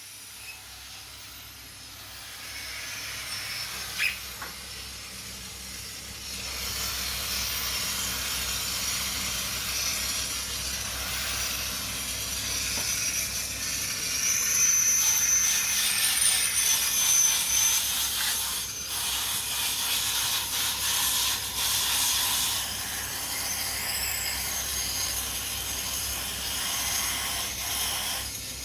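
Acetylene torch flame hissing with a faint high whistle, getting louder about six seconds in and again around fourteen seconds. The flame is laying a coat of soot on a steel shaft so that the poured babbitt metal won't stick to it. A single sharp click comes about four seconds in.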